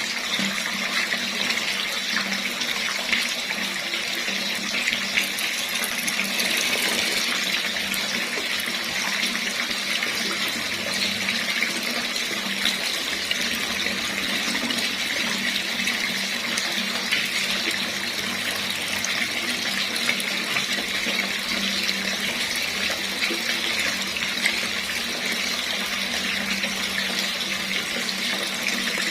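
Water running steadily from a tap, an even splashing rush.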